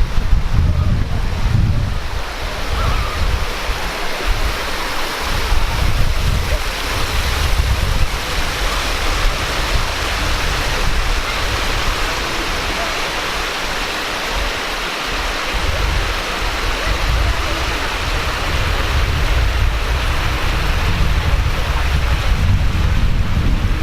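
Water of a small stream rushing over rocks: a steady, even hiss. Wind buffets the microphone in low, uneven gusts throughout.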